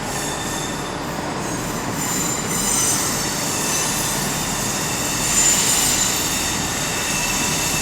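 Wheels of a diesel multiple unit squealing with several high-pitched tones over the steady rumble of the train moving slowly through the platform. The squeal swells about three seconds in and eases near the end.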